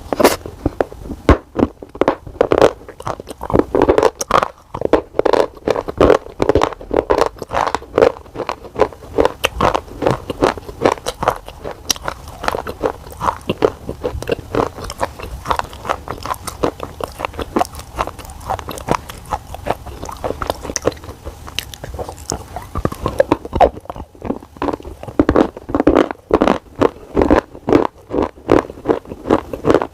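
Close-up crunching and chewing of a hard, brittle black cube, the kind eaten on slate-pencil ASMR channels, with dense, irregular sharp cracks several times a second.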